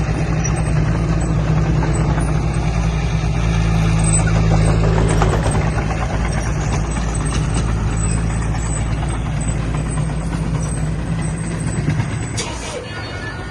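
Heavy diesel engine of an earthmoving machine running steadily with a deep, even hum, easing off near the end as a brief hiss sounds.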